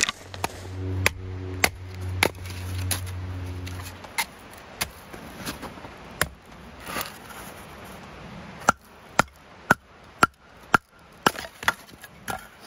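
Firewood being chopped: a series of sharp, separate blows, quicker near the end at about two a second. A low steady hum runs under the first few seconds and then stops.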